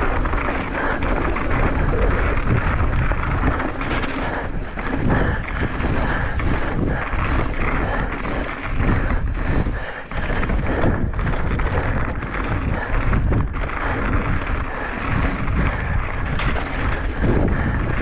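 Heavy wind buffeting on a mountain biker's camera microphone at speed, over the rattle and knocks of the bike running on rough ground.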